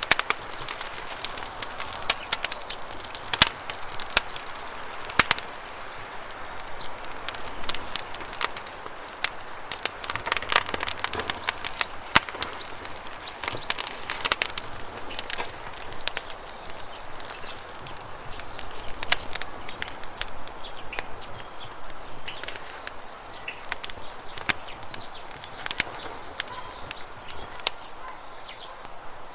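Campfire crackling, with irregular sharp pops and snaps over the steady rush of flowing river water. A few faint bird chirps come in about three seconds in and again near the end.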